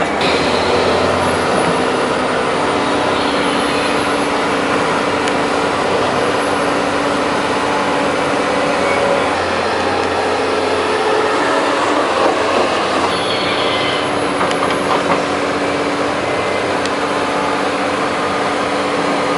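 Excavator working: engine and hydraulics running loudly and without a break, a dense rumble with a few steady tones.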